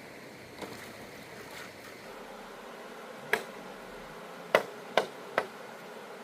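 A few sharp knocks over a steady hiss: a faint one near the start, then one more, then three in quick succession near the end.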